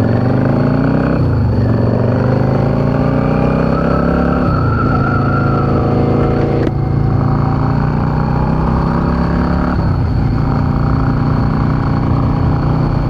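Yamaha V-Star 650's air-cooled V-twin engine pulling away and accelerating, its pitch climbing and then dropping with an upshift about a second in, again near four and a half seconds, and again about ten seconds in, before running steadily at road speed.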